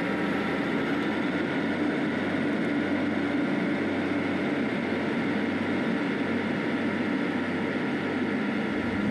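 Passenger train running, heard from inside the carriage: a steady hum of engine and running noise with a few held tones.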